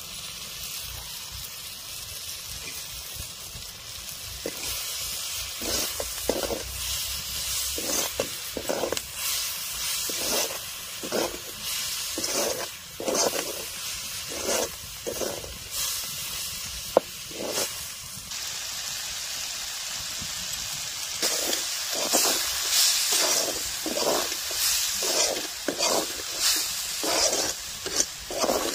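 Snail meat sizzling in masala in a metal wok (kadai), with a steady hiss. A metal ladle stirs and scrapes the pan in repeated strokes, about one a second, starting a few seconds in, pausing briefly past the middle, then coming quicker toward the end.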